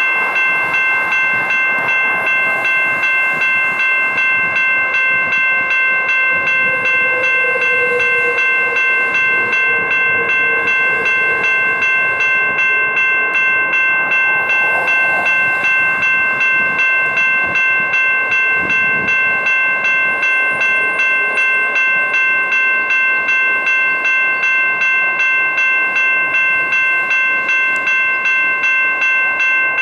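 Electronic railroad crossing bell ringing in a steady, even rhythm of rapid, ringing strikes, unchanged throughout. A lower, noisier sound runs beneath it, with a tone that falls slowly about a third of the way in.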